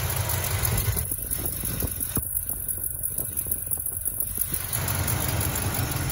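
403 Oldsmobile V8, bored .030 over with a mild Comp Cams camshaft, idling steadily with a low, even rumble.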